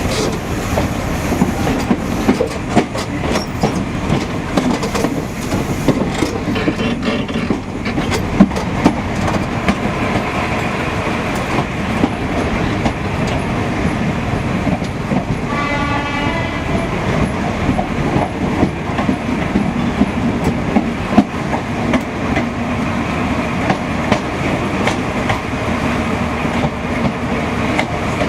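Train running along the line with a steady rumble and the clickety-clack of wheels over rail joints. A horn sounds briefly about halfway through.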